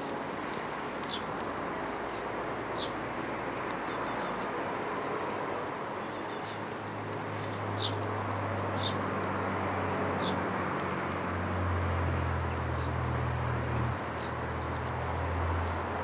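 Birds chirping outdoors: short high chirps every second or two, with a couple of quick high trills. A low engine drone builds up in the second half.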